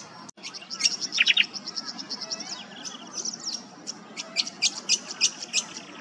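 Tawny grassbird singing: a fast run of short, high chipping notes, several a second, with a louder cluster of three lower notes about a second in and a louder, evenly repeated series of notes in the second half.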